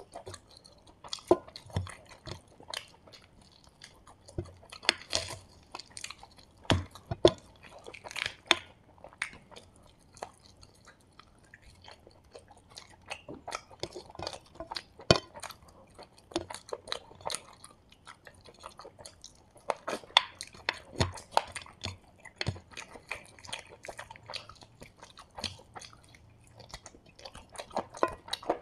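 Close-miked chewing and crunching of Kerala-style fried chicken: an irregular run of wet clicks and crisp crunches as meat is pulled off the bone with the fingers and eaten.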